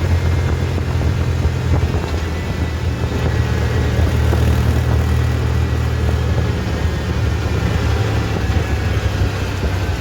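Diesel tractor engine running steadily, a loud low drone.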